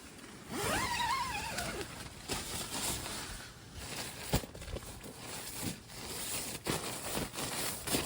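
Scattered knocks and rustling of gear being handled, with one short call that rises and then falls about half a second in.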